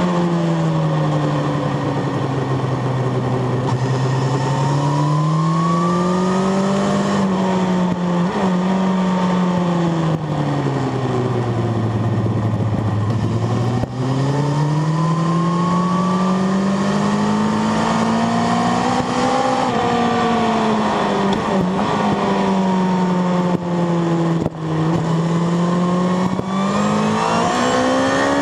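Sport motorcycle's engine under way at speed, its pitch sweeping down and up several times as the bike slows for corners and accelerates again. It is lowest as the bike slows hard for a slow corner about halfway through, and rises again near the end.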